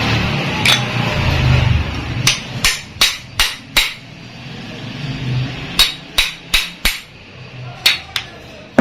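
Hammer blows on the metal parts of a car AC compressor during bearing replacement. The blows come in quick runs of four or five, about three a second, with a single louder blow at the end.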